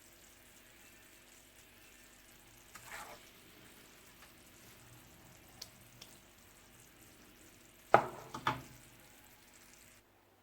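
Faint sizzling of chicken simmering in a honey and soy sauce glaze in a pan, with a few small clicks and two loud sharp knocks about eight seconds in, then the sound stops abruptly just before the end.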